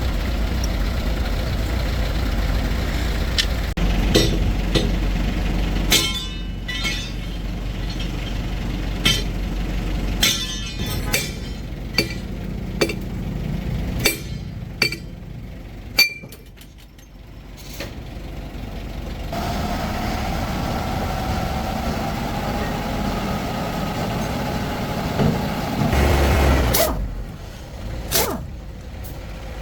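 A heavy truck's engine running, with scattered sharp knocks and clanks through the middle. From about twenty seconds in there is a steady whine.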